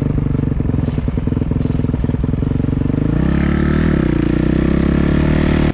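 Dirt bike engine running under way, its pitch climbing and its note filling out about halfway through as the revs rise, then cut off abruptly.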